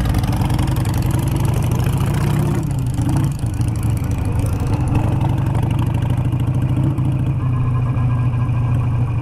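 Harley-Davidson V-twin motorcycle engine running at low speed as the bike rides over a cobblestone street. The engine note dips briefly about three seconds in.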